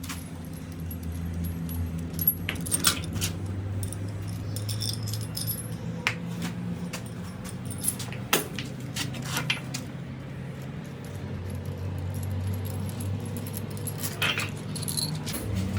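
Scattered sharp metallic clinks and taps of hand tools being handled, over a steady low machine hum.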